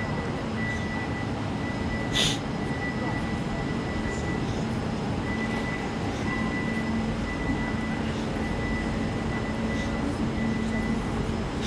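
Steady hum with a constant high whine from a Lastochka (Siemens Desiro) electric train's equipment, with a short hiss about two seconds in.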